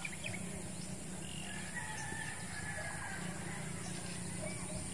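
Faint open-air ambience with distant birds calling, including a drawn-out call about a second and a half in, over a low steady background hum.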